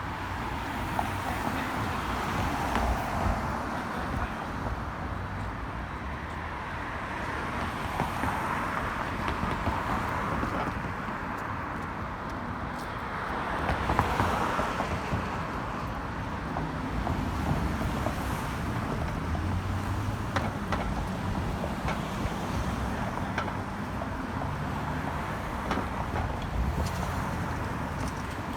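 City street traffic, cars passing in swells that rise and fall over a steady low rumble, with wind buffeting the microphone.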